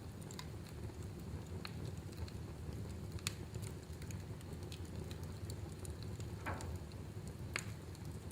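Wood fire in a fireplace crackling, with scattered sharp pops over a steady low rumble; the sharpest pops come about three seconds in and near the end.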